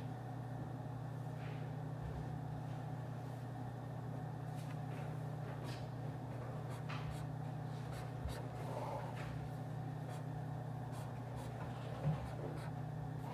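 Office white-noise ambience: a steady low hum with scattered light clicks and taps from desk work, and one louder knock near the end.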